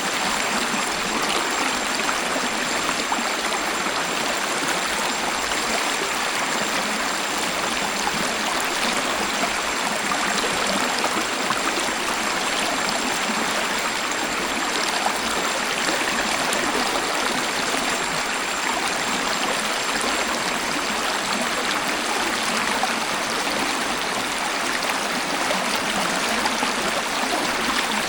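A waterfall: a steady rush of falling and splashing water, even and unbroken, with little deep rumble.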